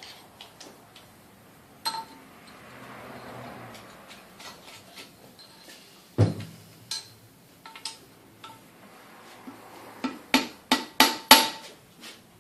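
Scattered light metallic taps and clinks with a short ring, then a quick run of about six sharp strikes near the end.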